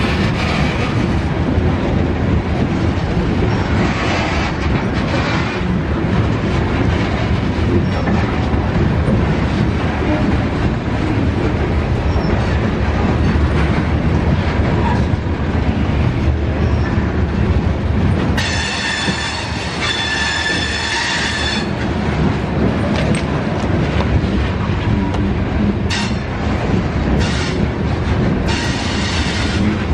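Freight train cars rolling past with a steady rumble and clatter of wheels on the rails. A high-pitched wheel squeal rings out for about three seconds past the middle, and shorter squeals come near the end.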